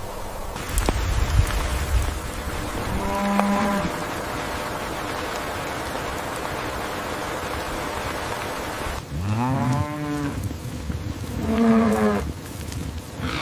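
Cattle mooing: three calls, a short one about three seconds in, a longer one that rises and then falls in pitch about nine seconds in, and another short one near the end, over a steady hiss.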